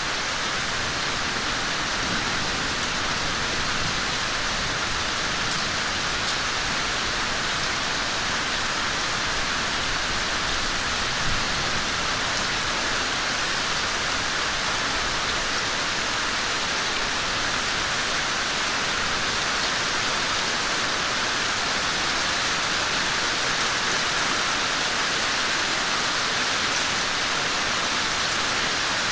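Rain falling steadily: an even, continuous hiss of drops with no let-up.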